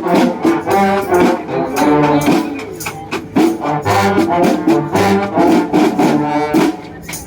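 Brass band playing: trumpets and trombones over drums. The music drops away near the end.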